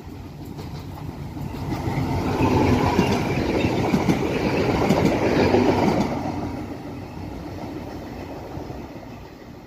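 Diesel multiple unit 711 006 passing close by: its engine and wheel noise on the rails build up, are loudest for a few seconds with a run of sharp wheel clicks, then fade as the train draws away.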